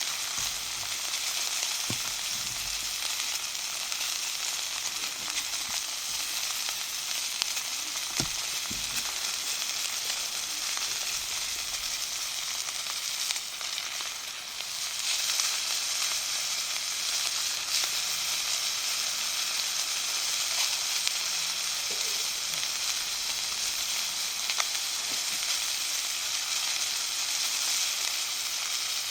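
Pork chops sizzling in a cast-iron skillet over a campfire: a steady frying hiss that dips briefly a little before halfway, then comes back slightly louder.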